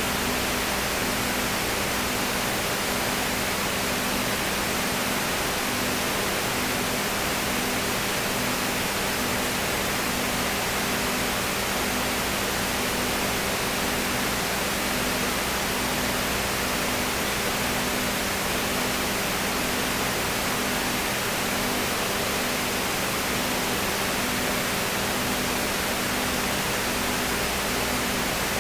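Steady hiss with a faint low hum that pulses about once a second.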